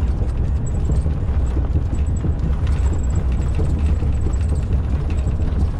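Steady low rumble of a truck heard inside the cab while it drives over the rough, worn original concrete surface of the old autobahn, with faint knocks and rattles from the ride.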